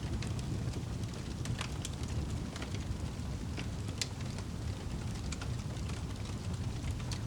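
Wood fire burning in a fireplace with a steady low rumble, and sharp crackles and pops scattered at irregular moments.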